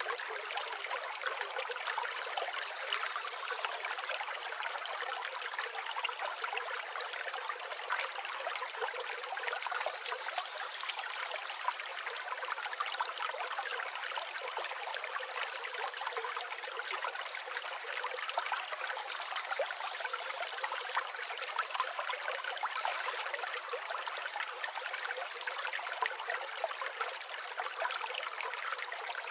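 River water flowing steadily over stones, an even rushing babble with no low rumble. A few faint, high bird chirps come through now and then.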